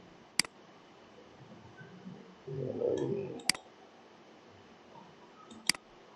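Three sharp single clicks, the first two about three seconds apart and the third about two seconds later, typical of a computer mouse being clicked. Just before the second click there is a brief muffled rustle.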